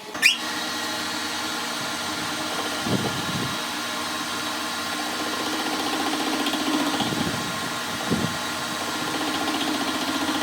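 A workshop machine's electric motor spins up with a quick rising whine, then runs steadily with an even hum. A couple of dull knocks come about three and eight seconds in.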